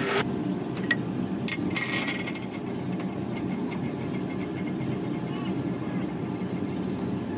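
Metal tools or parts clinking in a workshop: a few sharp clinks and a brief ringing clatter near the start, over a steady low machine hum, then faint light ticks about three times a second.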